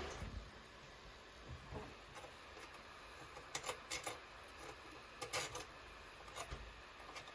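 A few light, sharp clicks and knocks, scattered over several seconds against faint room tone: parts and tools being handled during washbasin faucet and drain-trap work.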